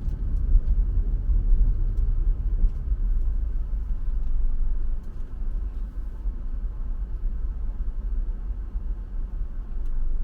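Car driving, heard from inside the cabin: a steady low rumble of road and engine noise, with a few faint ticks.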